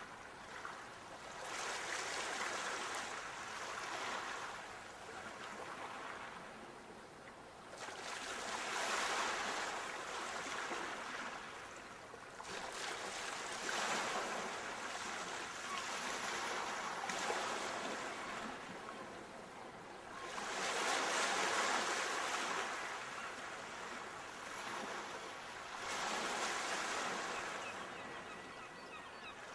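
Sea waves washing onto the shore: a surf hiss that swells and dies back every few seconds, with about six surges, the biggest a little past two-thirds of the way through.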